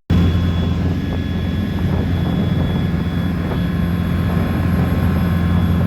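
Boat's 494 horsepower Cummins diesel engine running with a steady, loud drone.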